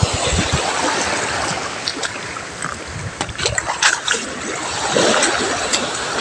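Sea water splashing and washing against the shore, a steady wash with scattered small clicks and splashes.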